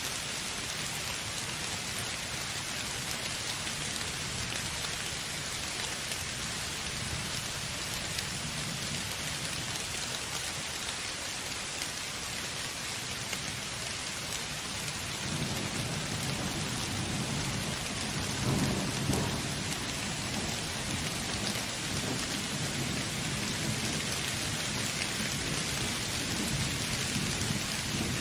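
Steady heavy rain falling, with thunder rumbling low in the background from about halfway through and swelling briefly near the middle.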